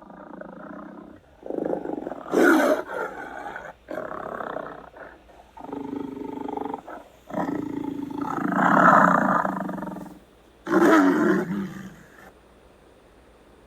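Big cat roaring: a string of about six roars with short pauses between them, the longest and loudest roughly in the middle.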